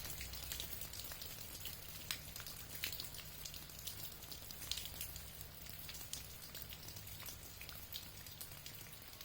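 Rain falling, with irregular drops tapping sharply on a surface over a steady low hum.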